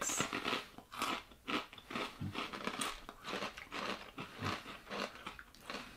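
Crunchy roasted corn kernels (Boy Bawang corn snack, like corn nuts) being chewed: a run of irregular crunches.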